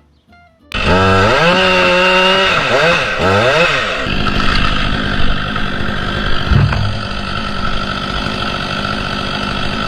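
Chainsaw starting up, its engine pitch rising and falling a few times as it is revved about a second in, then running steadily at high speed.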